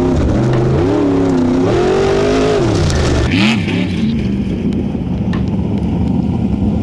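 A 700-plus-horsepower Formula Offroad car's engine revving up and down several times, its pitch rising and falling. From about halfway it settles into a steady, lower run.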